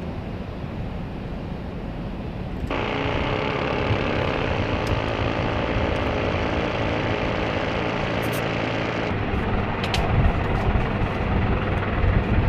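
CH-53E Super Stallion helicopter's turbine engines running, a steady mechanical noise with a whine in it that steps up louder about three seconds in.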